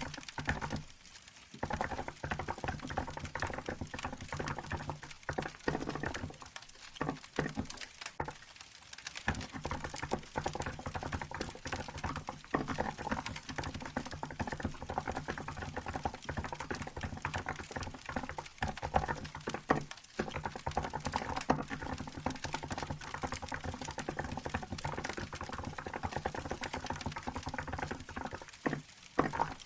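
Continuous typing on a Hansung GK868B mechanical keyboard fitted with 'milk' keycaps: a fast, uneven run of key clicks with short pauses about a second in, in the middle and near the end.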